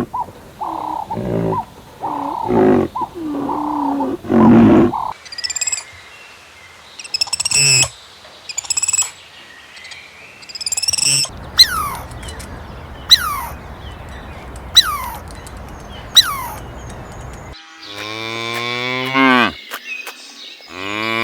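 A run of different animal calls one after another: pitched calls, then high bird chirps, then a series of quick falling whistles, then a long loud call that rises in pitch near the end.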